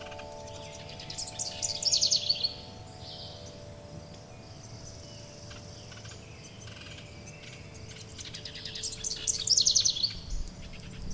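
Songbird singing a fast trill of notes that slide downward, twice, about seven seconds apart, with short high chirps in between. Under it ring several steady, long-held wind-chime tones.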